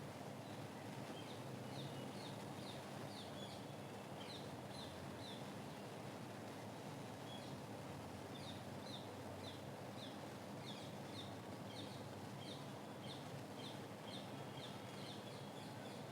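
Purple-rumped sunbird giving short, high, thin chirps, repeated in quick runs, over a steady background hiss.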